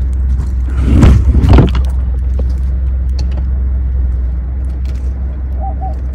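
A car engine idling with a steady low rumble. About a second in comes a brief rustle and jangle close to the microphone.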